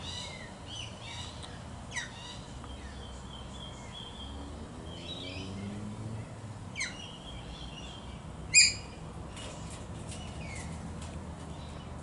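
Birds calling: scattered chirps and short downward-sweeping calls, with one loud, short screech about eight and a half seconds in.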